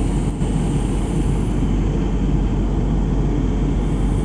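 Steady in-flight noise of an airliner heard from inside the cabin: a constant low roar of engines and airflow.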